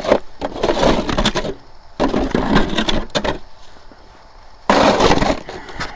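Three long gritty scrapes of a snow shovel pushed through snow over a layer of ice.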